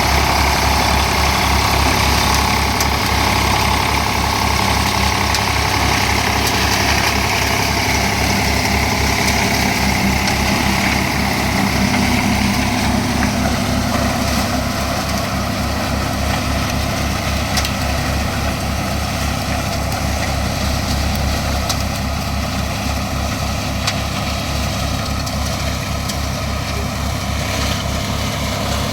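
50 hp tractor's diesel engine running steadily with a 7 ft Land Force mulcher driven from it, a pulsing low rumble under a higher whir. The whir lessens about halfway through.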